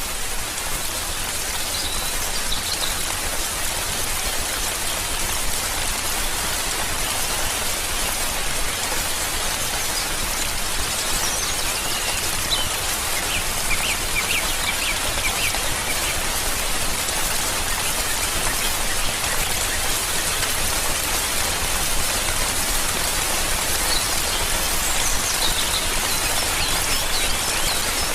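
Steady rain falling, with a bird chirping briefly a few times over it.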